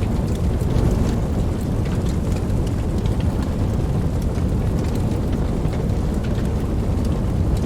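Steady rain, a dense even noise with a deep low rumble under it and scattered higher drop ticks.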